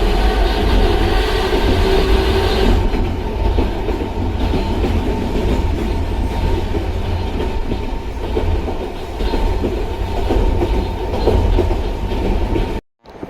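Narrow-gauge electric train running on the rails, a heavy steady rumble with clickety-clack from the track. A whining hum from the nose-suspended traction motors and gears sounds over it and fades about three seconds in.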